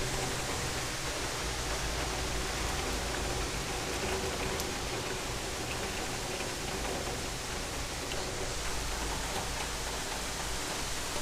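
A storm: the steady rushing noise of heavy rain, with a low rumble underneath that swells and fades.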